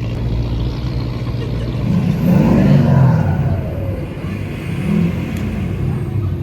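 Car engine rumbling steadily, then a car revving louder about two seconds in, its pitch falling away over the next second or two.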